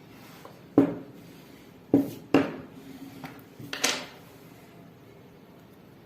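Sharp knocks of hard objects on a work table: one a little under a second in, two close together around two seconds, and two more close together near four seconds.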